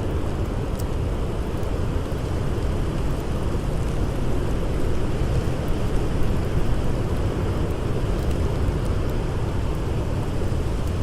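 Blizzard wind blowing as a steady, dense, low rumbling rush of noise, with a few faint crackles from a campfire.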